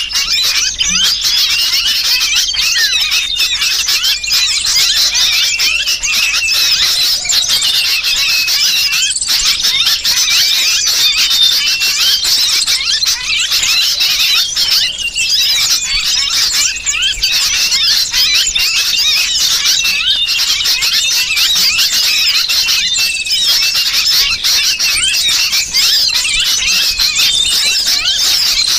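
Dense, unbroken chorus of high-pitched small-bird chirps and squeals, mixed with the distress cries of a sooty-headed bulbul (kutilang) as if caught. This is a bird-lure call, played to draw in small birds.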